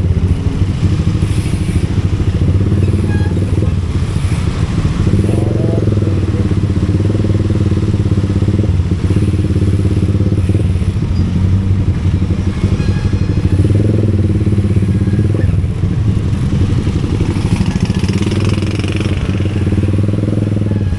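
Motorcycle engine running continuously while riding, its note swelling and shifting a few times as the throttle is opened and eased.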